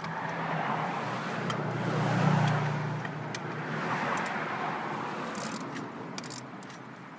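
A car passing by on the road, its noise swelling to a peak about two seconds in and slowly fading away. A few short clicks come near the end.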